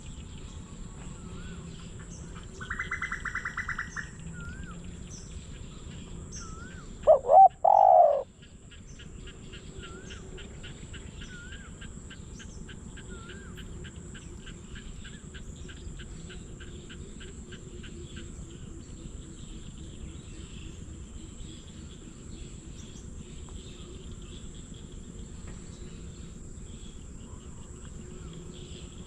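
Spotted dove cooing once: a short loud phrase of three low notes about seven seconds in. Around it, steady insect noise, a brief buzz a few seconds in, and small birds chirping.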